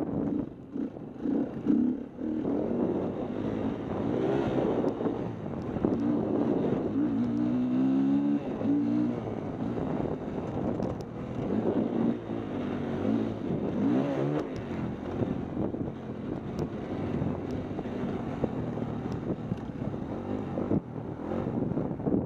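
Dirt bike engine running hard, its pitch rising and falling as it revs up through the gears and backs off, with wind noise on the microphone.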